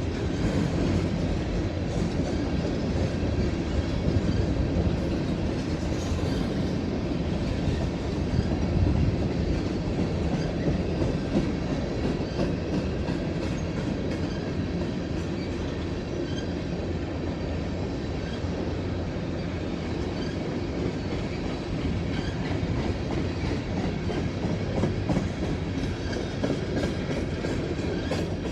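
Long freight train steadily rolling past, its cars running by without a break.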